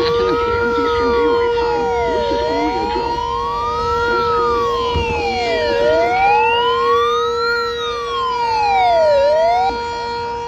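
An emergency vehicle's electronic siren in wail mode, rising and falling about every three and a half seconds, then cutting off suddenly near the end. Underneath, the Sentry 7V8 outdoor warning siren holds a steady tone.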